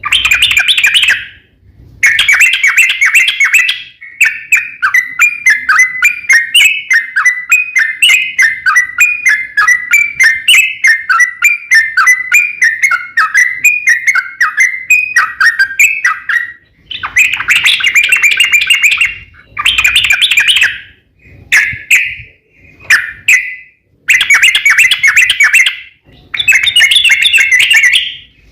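Yellow-vented bulbul (trucukan) singing: fast chattering phrases broken by short pauses, with one long unbroken run of warbling notes in the middle.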